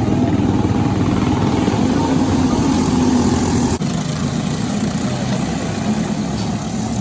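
Briggs & Stratton LO206 single-cylinder four-stroke kart engine running steadily on track, with a brief dropout a little past halfway.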